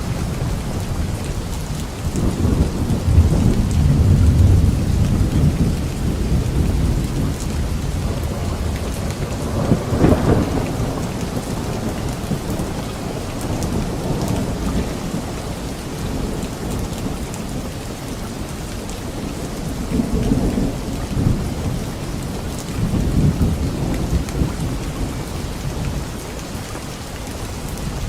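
Thunderstorm: steady rain falling, with thunder rumbling low several times and one sharper, brighter crack about ten seconds in.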